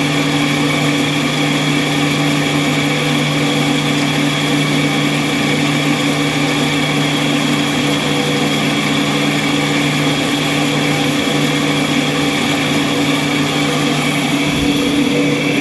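A motor-driven machine with a newly replaced belt gearbox running steadily at constant speed, a smooth even hum with no knocks or changes.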